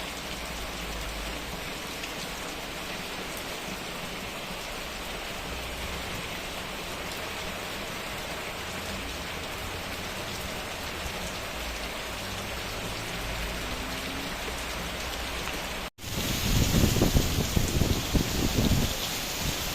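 Steady rain falling. About sixteen seconds in, it cuts off abruptly and gives way to a louder, uneven low rumble.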